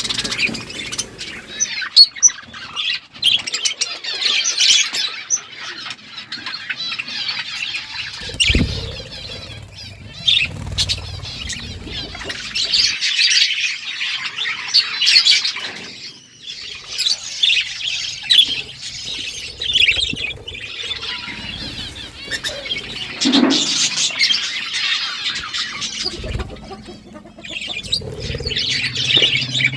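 A group of budgerigars chattering and chirping continuously, a dense mix of warbles and squawks, with a few low thumps about eight seconds in and again near the end.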